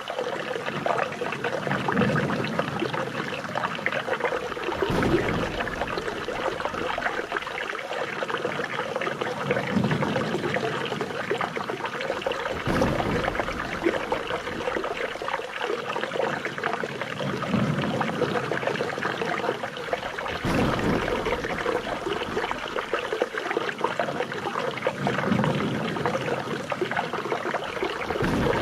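Flowing water, trickling and splashing steadily, with a low swell that comes back about every eight seconds.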